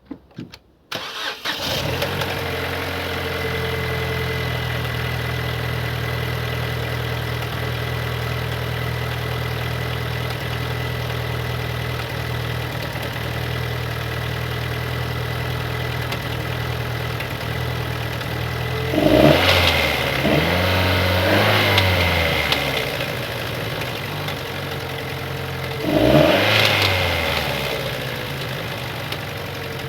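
Opel Astra J's 1.4-litre turbo petrol engine (B14NET) starting about a second in, then idling steadily, revved briefly twice, about two-thirds through and again near the end. It makes an unusual engine noise that may point to bearing damage.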